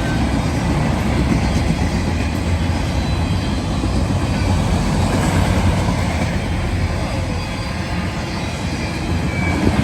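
Freight train rolling past: a steady, loud rumble of cars and wheels on the rails.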